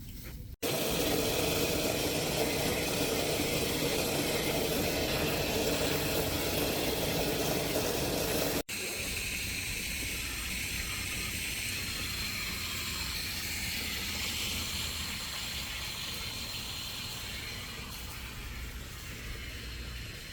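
Water running steadily from a hose, a constant hiss, with the sound changing abruptly about eight seconds in to a thinner, higher spray.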